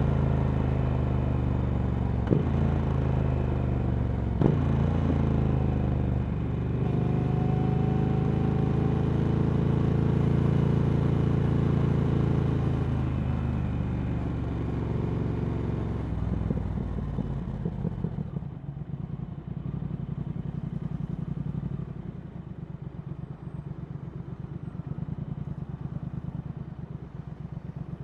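Triumph Speed Twin 1200's parallel-twin engine running through a Vance & Hines slip-on exhaust under way, steady with slow rises and falls in pitch and two sharp clicks a few seconds in. About two-thirds through it drops to a quieter, pulsing off-throttle sound.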